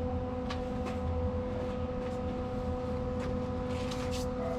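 Steady machine hum with a few faint, short clicks.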